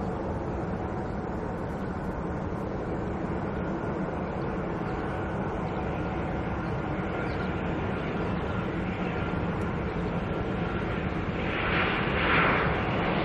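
Airliner engines running with a steady rumble and a faint whine, growing louder and rougher near the end as the aircraft comes closer.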